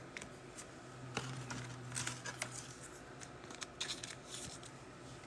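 Faint, irregular small clicks and scrapes of trading cards and their packaging being handled.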